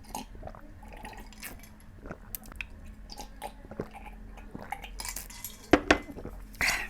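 Close-miked eating sounds: chewing with scattered small clicks and clinks against a plate. A sharp knock near the end is the loudest sound.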